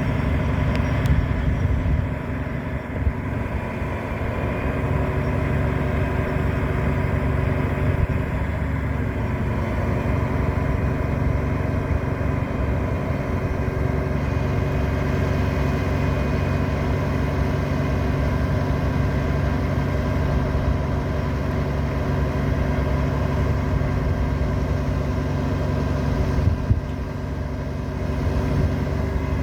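Diesel engine of a Peterbilt 348 rollback truck idling steadily.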